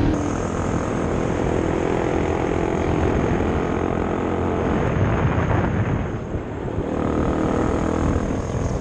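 Off-road motorcycle engine running under way, a steady drone with wind noise, easing off briefly about six seconds in and then picking up again.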